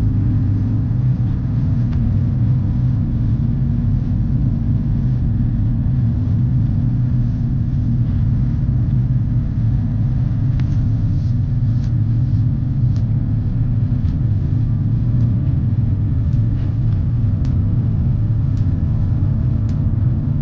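Steady low rumble inside an Airbus A350-900 economy cabin in flight, from engine and airflow noise. A few faint clicks come now and then in the second half.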